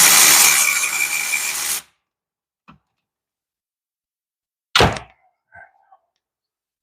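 Impact wrench running under load on a hub bolt, then cutting off suddenly; a light knock follows, then a single heavy metal thunk a few seconds later.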